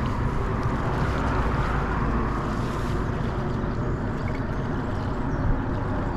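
Steady low rushing noise of outdoor ambience, with no distinct events.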